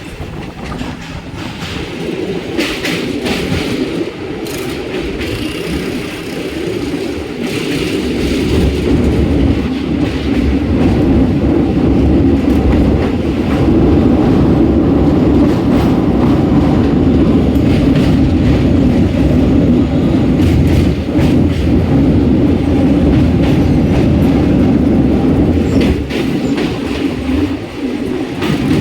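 Train running across the Sonepur rail bridge over the Gandak river, a continuous wheel-and-rail rumble with scattered clicks that grows louder over the first ten seconds, holds steady, and eases slightly near the end.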